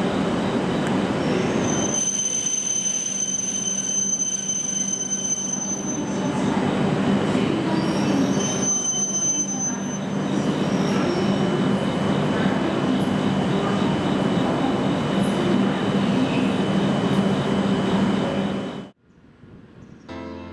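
E7 series Shinkansen train pulling into a station platform: a steady rumble and hum with a high, piercing wheel squeal that comes twice, the first for about four seconds and the second more briefly, about eight seconds in. The sound cuts off sharply near the end.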